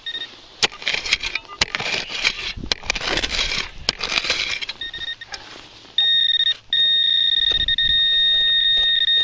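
Scraping and clicking of digging in soil for about four seconds, with short electronic blips from a handheld metal-detecting pinpointer; then from about six seconds in the pinpointer sounds one steady unbroken tone, which means it is held right on the buried metal target.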